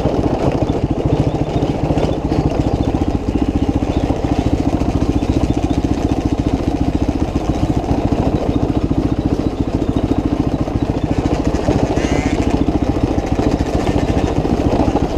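Motorcycle engine running steadily, a fast even pulsing of the exhaust.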